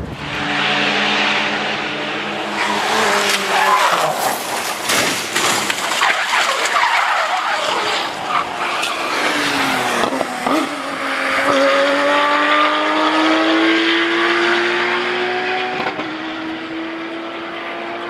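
Car engine revving hard with its tyres skidding and squealing. The engine pitch climbs, drops sharply about ten seconds in, then rises steadily again.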